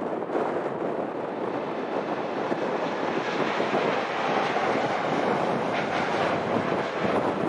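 Boeing 747-8F freighter's four GEnx-2B jet engines at takeoff power: a steady rumbling jet noise that grows slightly brighter about halfway through.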